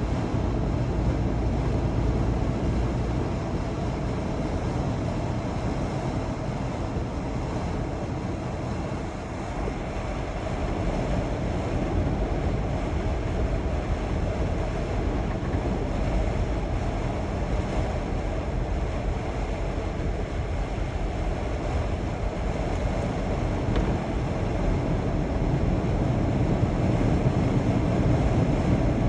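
Steady drone of a semi truck on the move, engine and road noise mixed with wind.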